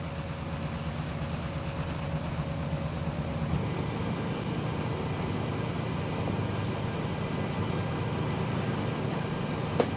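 A patrol boat's engines running steadily at low revs, holding the boat in position against the tide. There is a single sharp click near the end.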